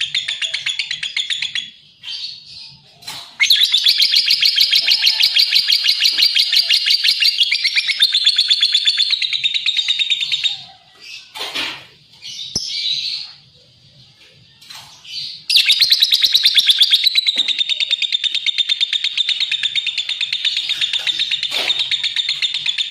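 Lovebird chattering: long runs of rapid, high, shrill chirps repeated many times a second, broken by a few short pauses.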